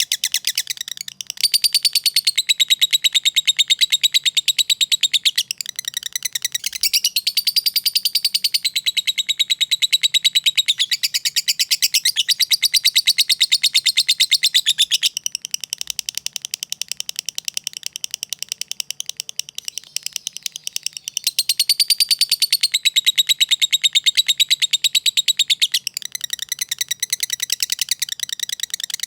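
A lovebird giving its long, very fast chattering song ('ngekek'): a rapid train of sharp, high chirps running in long unbroken phrases with only brief breaks.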